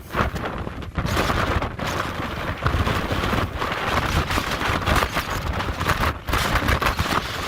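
Hurricane-force wind gusts buffeting the microphone: a loud, rough, crackling roar that eases briefly about six seconds in.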